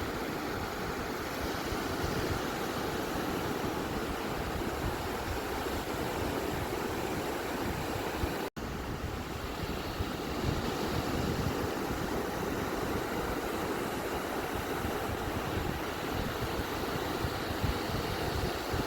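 Steady rush of ocean surf washing on a beach, with no distinct breaking waves standing out. It cuts out for an instant about eight and a half seconds in.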